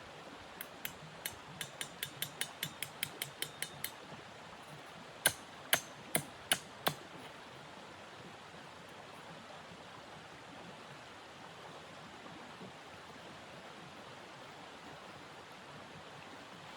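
A run of light clicks that speed up, then five sharp knocks in quick succession, over a steady hiss.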